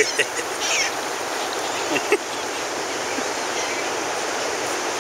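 Steady rush of beach surf and wind, with a few short seagull calls near the start and again about two seconds in.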